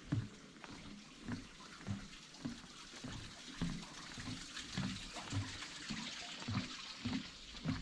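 Footsteps of a person walking on a path, about two steps a second, over a steady rush of running water that grows louder midway.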